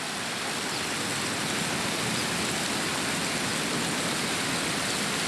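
Steady rush of running water at a hotel pool, even and unbroken.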